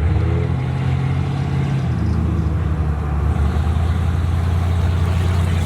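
Ford Focus engine running steadily as the car is driven, a continuous low drone with road noise.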